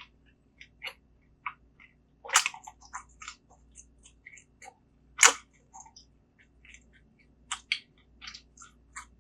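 A person chewing and eating close to the microphone: scattered short mouth clicks and snaps, with two louder bites about two and a half and five seconds in.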